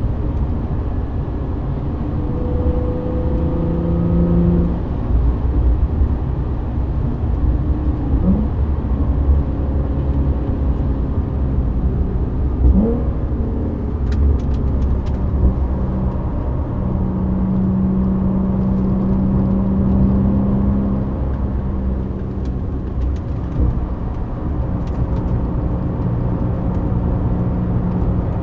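Audi B8 S4's supercharged 3.0 V6 through a non-resonated Milltek exhaust, heard from inside the cabin at track speed, with engine and road rumble. The engine note holds and changes pitch in steps as the car accelerates and lifts, with a couple of quick rising sweeps.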